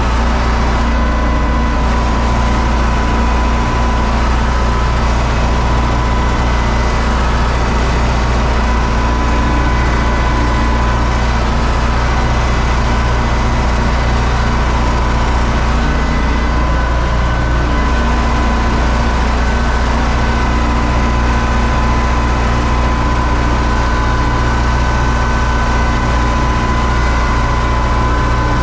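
U650 tractor's four-cylinder diesel engine running steadily and loud, with a steady high whine over it.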